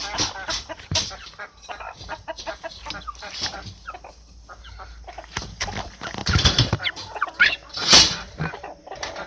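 A chicken clucking amid clattering and knocking from the trap it is stuck in, with a loud burst of rustling about eight seconds in.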